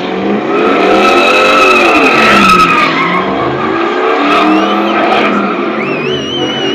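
A vehicle's engine revving up and down while its tyres squeal on pavement, as in a burnout or skid. A high, wavering squeal sets in near the end.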